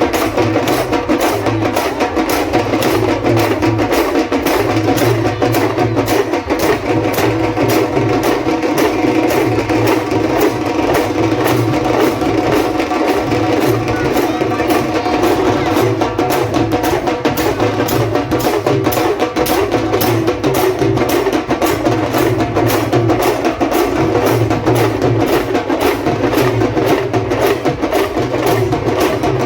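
Percussion-driven music: drums and a wood-block-like clapper struck in a rapid, steady beat over a held droning tone, with a bass pulse coming and going in a regular pattern.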